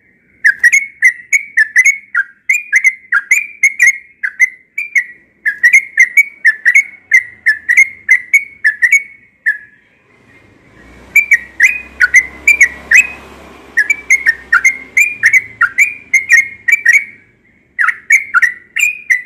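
Yellow-vented bulbul (trucukan) singing: rapid, loud whistled notes in bubbling phrases, with short pauses about 1.5 s in, about 9.5 s in, and about 17 s in. A faint low rumble sits beneath the song for a few seconds in the middle.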